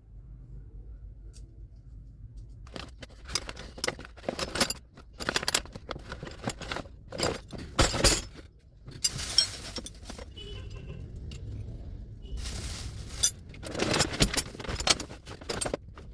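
Irregular metallic clinking and clattering, like tools and hose fittings being handled, starting about three seconds in over a low steady hum.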